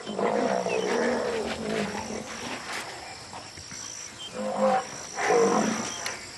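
Large wild animal calling: two drawn-out low moaning calls, one at the start and one about four and a half seconds in, over a thin steady high whine.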